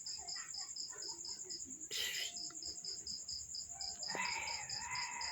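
Insect chirping, most likely a cricket: a high, even pulse about five times a second, steady throughout. A brief rustle about two seconds in and a faint pitched call near the end.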